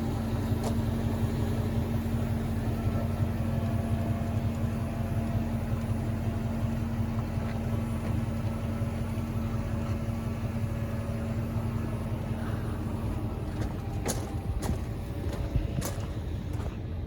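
Chevrolet 3500HD dump truck's 8.1-litre gas V8 idling steadily, with a held hum that fades about 13 seconds in. A few sharp clicks near the end.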